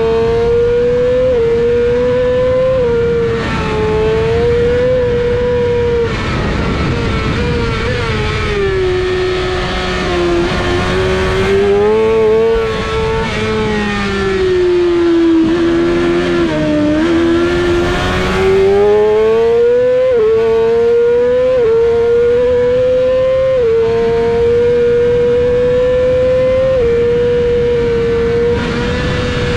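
Yamaha R6's 600 cc inline-four engine revving high at full race pace, its pitch holding near the top with short steps as gears change. In the middle the pitch falls gradually over several seconds and climbs back again. Wind rushes over the bike throughout.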